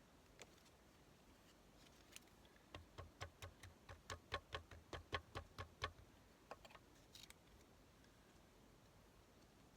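A quick series of about fourteen light taps on a work table, roughly four a second for about three seconds, with a few single clicks before and after.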